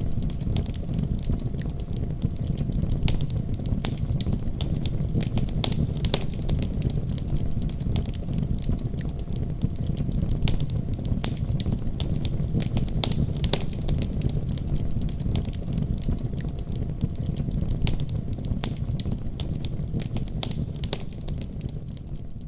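Fire burning in a fireplace: a steady low rumble of flame with frequent, irregular sharp crackles and pops.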